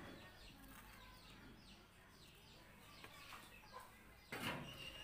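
Near silence with faint bird chirps in the background, short and repeated. About four seconds in a louder call starts and holds one high note.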